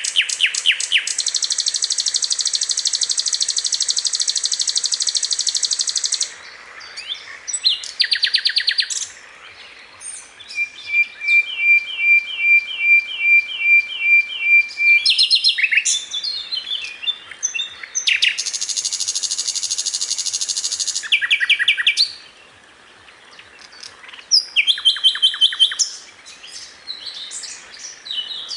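A sikatan londo songbird singing a fast, varied song. It gives long high rattling trills of several seconds each, early and again past the middle, and between them a run of evenly spaced notes at about two a second.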